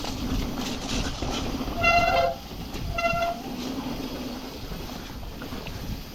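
Mountain bike disc brakes squealing twice, a short high-pitched squeal about two seconds in and a shorter one a second later, over the rumble of tyres rolling on the trail. The brakes are wet from riding in heavy rain.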